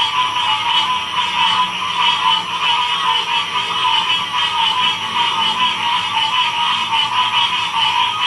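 Dense chorus of many frogs calling at once, a steady wall of overlapping calls with one layer at a middling pitch and another, louder layer higher up.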